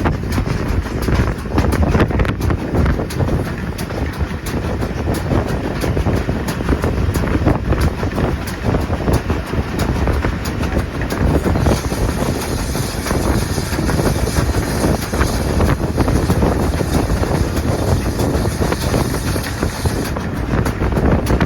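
Train running on the line: a steady rumble of wheels on rail, with wind buffeting the microphone. A higher hiss joins in from about halfway through and drops away shortly before the end.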